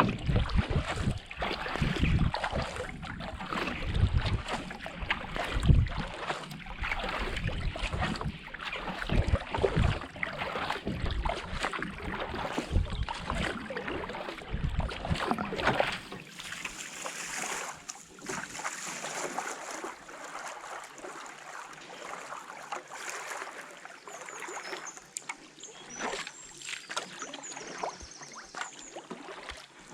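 Wind buffeting the action-camera microphone over water lapping and dripping around a kayak at rest. The gusts stop about halfway through, leaving the lighter splashing and trickling.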